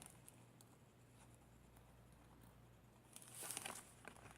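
Near silence, then a brief soft rustle of paper about three seconds in, as the handmade journal's pages are handled.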